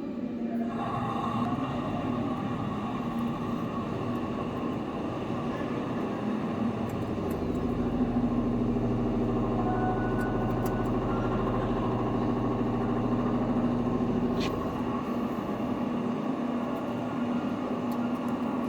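CNC lathe running, a steady machine hum with several fixed tones. A deeper drone joins about a third of the way in and drops away about three quarters through, with a short high chirp near that point.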